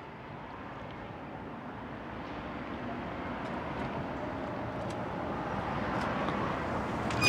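Steady vehicle noise with no clear engine note, slowly growing louder.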